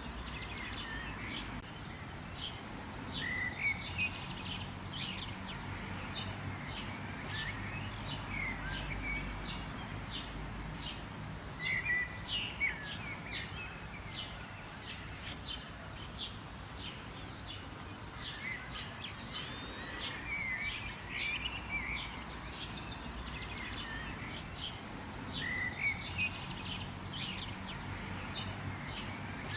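Birds chirping: a steady stream of many short, quick chirps from several birds, with now and then a fuller curving call, over a low steady background haze.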